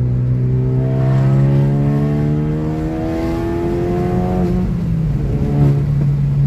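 Straight-piped Ford Focus RS Mk3's turbocharged 2.3-litre four-cylinder exhaust under acceleration. The note rises in pitch for about four seconds, drops at a gear change, then settles, over a steady low drone.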